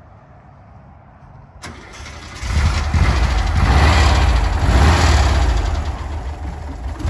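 Air-cooled flat-four engine of a Volkswagen bay-window bus, fitted with twin carburettors, running steadily at idle. It is faint at first and gets much louder about two seconds in.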